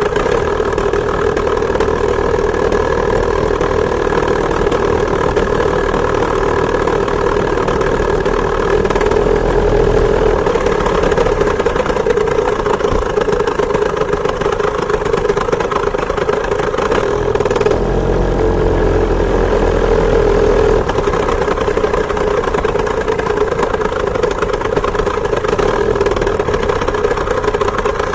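Two-stroke chainsaw engine driving a homemade moped, running steadily under way, its note rising a little twice, about nine and eighteen seconds in.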